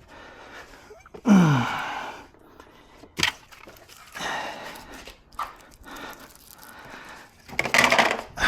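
A man's heavy breathing and a falling grunt-like sigh as he works, with a sharp click about three seconds in and further hissing breaths or rubbing near the end.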